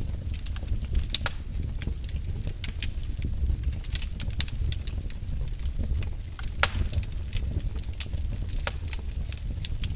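Wood fire burning in a fireplace: a steady low rumble of the flames with irregular sharp crackles and pops from the burning logs, one louder pop about two thirds of the way through.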